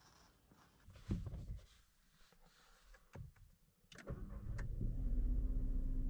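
A car door shuts with a thud about a second in. About four seconds in, after a couple of clicks, the Škoda Fabia's three-cylinder petrol engine starts and settles into a steady idle.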